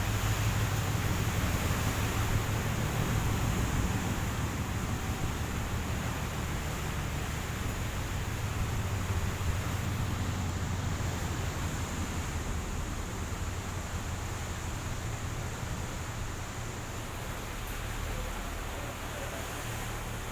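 Steady low drone of a ship's engine mixed with the hiss of wind and sea, easing slightly in loudness over the second half.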